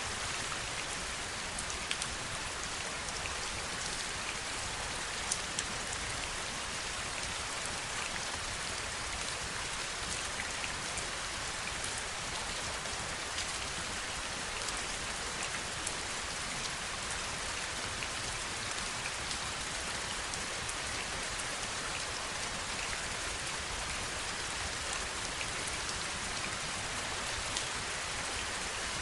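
Steady heavy rain: an even hiss of rainfall with scattered sharp ticks of individual drops landing close by.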